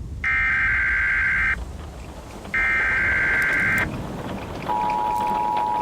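Emergency Alert System broadcast alert for a tornado warning: two electronic data bursts, each about a second long with a one-second gap between them, then a steady two-tone attention signal that begins near the end and holds.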